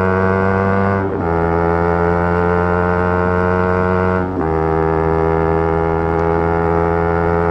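Yamaha R3's parallel-twin engine running hard at high revs, with two quick upshifts, about a second in and again past four seconds, each briefly cutting the note and dropping the pitch before the revs climb again.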